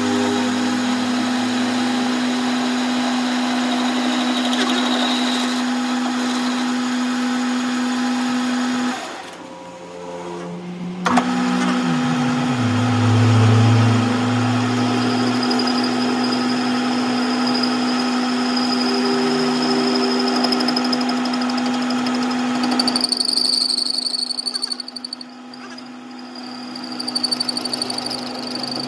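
Electric workshop machine motor running with a steady hum. It stops about nine seconds in, starts again about two seconds later, and stops again near the end.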